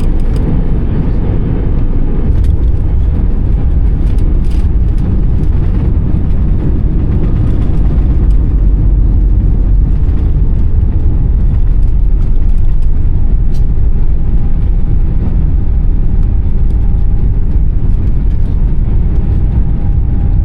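Loud, steady low rumble of an Airbus A320 with CFM56 engines, heard from inside the cabin: engine and airframe noise. A faint steady higher tone joins in during the second half.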